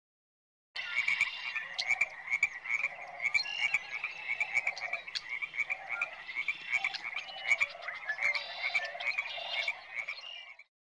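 A chorus of many short animal calls repeating and overlapping, starting about a second in and cutting off just before the end.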